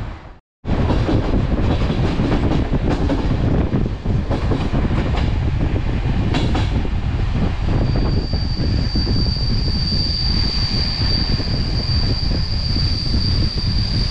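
Passenger train rolling at speed, heard at an open coach window: a loud steady rumble with sharp clicks from the wheels crossing rail joints and points over the first few seconds. About eight seconds in, a steady high-pitched wheel squeal sets in and holds.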